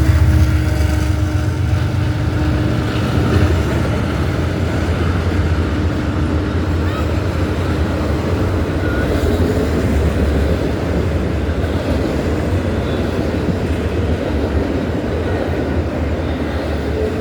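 Train passing close by. A deep engine rumble with a steady tone fills the first few seconds as the locomotive goes by, then the railroad cars roll past in a continuous steady rumble.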